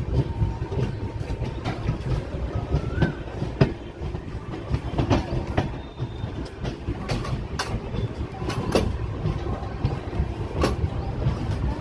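Passenger train running on the track: a steady low rumble with irregular sharp clicks and clacks as the wheels pass over rail joints.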